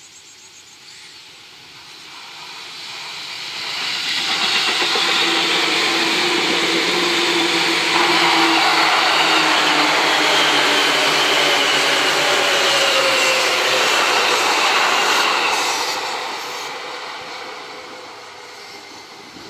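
Seibu 2000-series electric commuter train passing close by: running noise builds over a few seconds, holds as a steady rush of wheels on rails with a faint whine that falls in pitch, then fades away as the train recedes.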